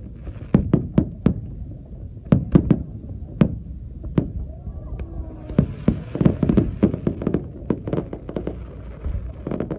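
Aerial fireworks going off: a run of sharp, irregularly spaced bangs that thicken about halfway through into a dense cluster of rapid bangs with crackle, then thin out again near the end.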